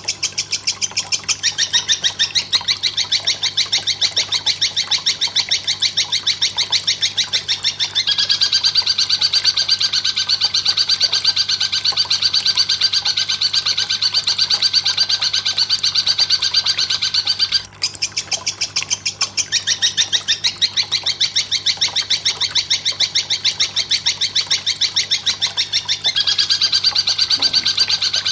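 Belalang kecek katydid stridulating: a fast, machine-even train of dry chirps, many a second, broken only by a short pause past the middle. A faint steady low hum lies underneath.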